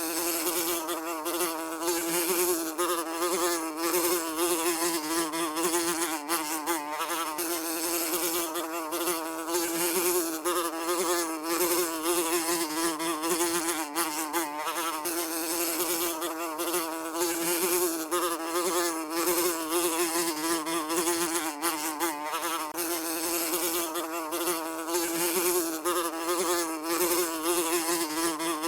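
A fly buzzing continuously: a steady drone whose pitch wavers slightly, over a hiss.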